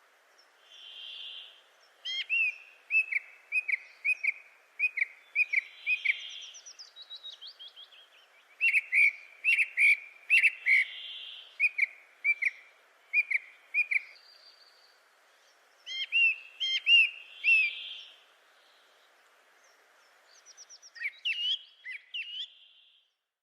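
Birds calling: runs of short, sharp chirps in quick series, with a soft whistled note every few seconds. The calls pause for a couple of seconds about three-quarters of the way through, then a few rising chirps come near the end.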